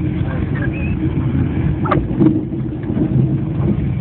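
Train carriage running noise: a steady low rumble, with a single sharp knock about two seconds in.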